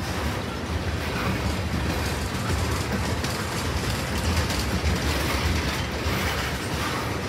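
Freight train's boxcars and tank cars rolling past, their steel wheels running steadily on the rails.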